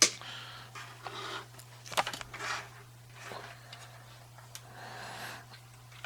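Small plastic and die-cast toy vehicles being handled: a sharp click at the start and another about two seconds in, with light scraping and rustling between.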